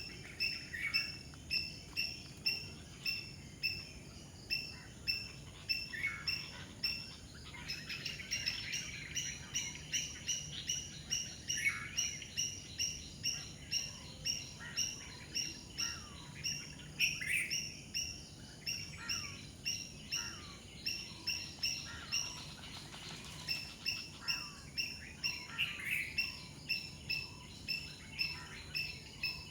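Birds calling: one high chirp repeated evenly about two to three times a second, with other birds' short falling calls scattered over it.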